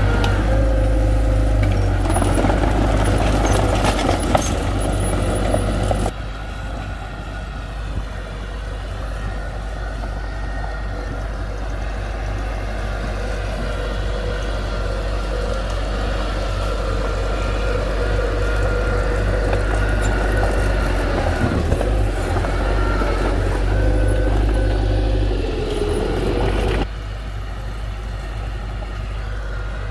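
Heavy construction machine engine running steadily under load, with a faint whine that shifts slightly in pitch. The level drops suddenly about six seconds in and again near the end.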